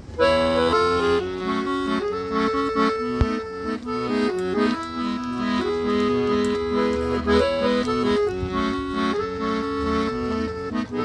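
Instrumental forró intro led by accordion, playing a lively melody with chords over a low bass pulse; the music comes in suddenly just after the start.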